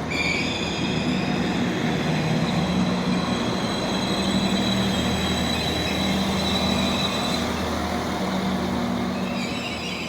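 Passenger train moving along the platform, with a steady high-pitched wheel squeal that stops about seven seconds in over a low running hum; the sound eases off near the end.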